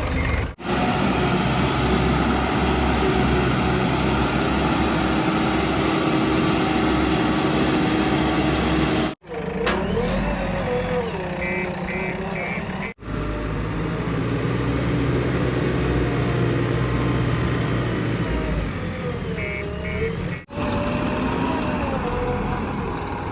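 JCB 3DX backhoe loader's diesel engine running steadily as it digs and loads, heard across several clips that break off abruptly at cuts. Two short runs of evenly spaced beeps come in, around the middle and again near the end.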